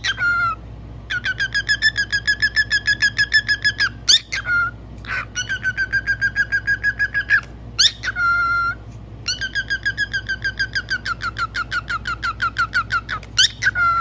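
A bird giving long rapid trills of repeated whistled notes, about ten a second, in runs of two to three seconds, broken by quick upward-sweeping whistles.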